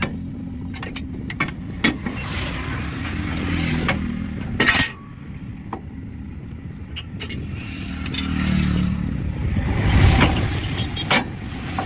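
Road vehicles passing, their rumble swelling and fading twice, broken by several sharp knocks, the loudest about four and a half seconds in.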